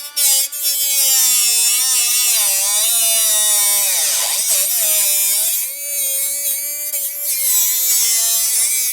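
Cordless angle grinder running on the steel of a rusted pickup chassis rail, a high whine with hissing grit; the motor's pitch wavers and drops at about four to five seconds as it bogs under load, then recovers.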